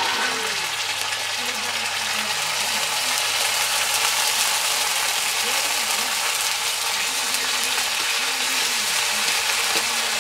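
Spice paste and sliced onions sizzling steadily in hot oil in an iron kadai, just after the wet masala has been poured in.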